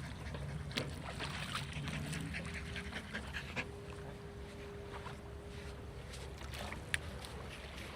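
A dog whining, a thin steady tone held for about three seconds in the middle, over a steady background hiss with scattered small clicks.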